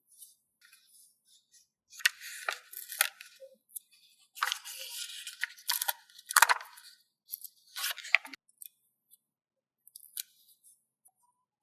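Paper stickers being handled and peeled, rustling and crinkling in several short bursts with a few sharp clicks and quiet gaps between them.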